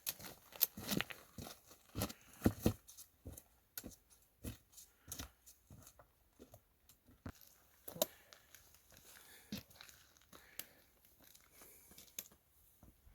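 Footsteps crunching on frosty ground, with crinkling of clothing and gear, in an irregular run of sharp crunches that thins out in the second half.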